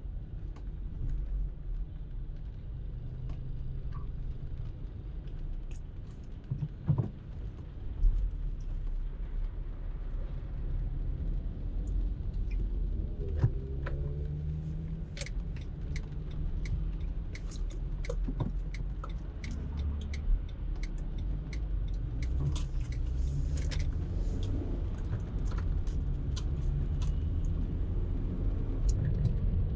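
Car being driven in traffic: a steady low road and engine rumble, with scattered small clicks and rattles and two louder knocks about seven and eight seconds in.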